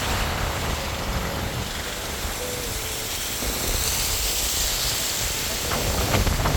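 A car driving, with steady road rumble and wind noise and a few light clicks near the end.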